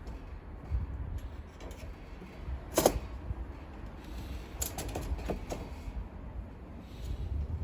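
Scattered knocks and clicks from objects being handled, one louder knock about three seconds in and a quick run of smaller ones near the middle, over a low rumble.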